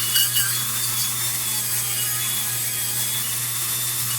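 180-grit abrasive steadily rubbing rust off the tin of an old lantern chimney, a continuous scratchy sound, with a steady low hum underneath.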